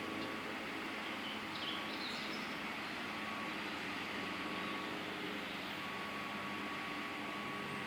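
Train rolling past on the track, a steady rolling noise with a faint high tone that comes and goes, and a few brief squeaks about two seconds in.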